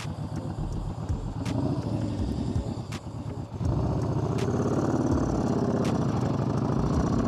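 Engine of a 2014 Yamaha Bolt XV950, an air-cooled V-twin cruiser, running on the road, then getting louder about three and a half seconds in as the rider opens the throttle.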